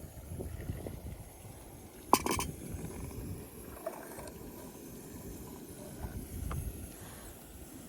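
Outdoor ambience: a low, uneven rumble, with a sharp knock followed by a brief clatter about two seconds in.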